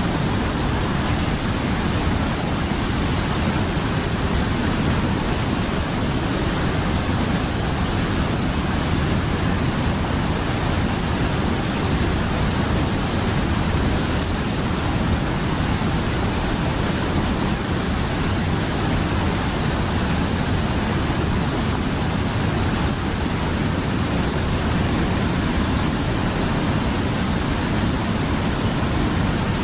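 Mountain river flowing over rocks: a steady, unbroken rushing of water.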